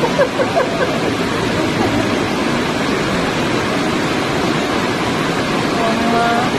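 Fast floodwater rushing, a steady, loud noise of torrent water, with a person's voice faintly heard just after the start and again near the end.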